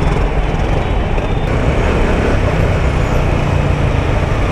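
Steady rush of wind and road noise with a motorcycle engine running underneath, picked up by a rider's helmet-mounted microphone in moving traffic.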